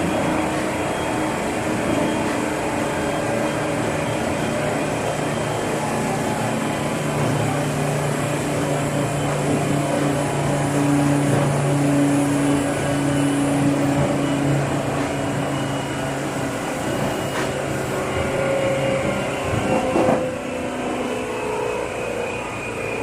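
Seibu New 2000 series electric train running, heard from inside motor car KuMoHa 2455: a steady wheel-and-rail rumble with held motor and gear tones. This car's traction motor also gives off a faint abnormal whine known as the "jet sound". In the last few seconds the tones fall in pitch as the train slows.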